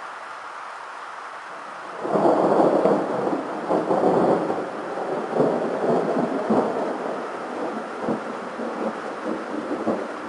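Thunder: a sudden loud clap about two seconds in that rolls on with crackling, rumbling peals, over a steady hiss of rain.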